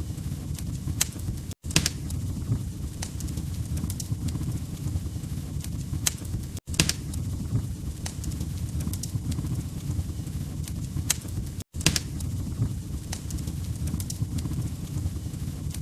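Wood fire crackling in a fireplace: a steady low rumble of the flames with sharp, irregular pops and snaps of burning logs. The sound cuts out for an instant about every five seconds.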